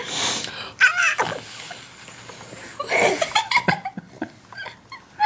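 Breathy puffs of air blown at close range, a hissing rush at the start and again around three seconds in, with a baby's short excited laughs and squeals in between.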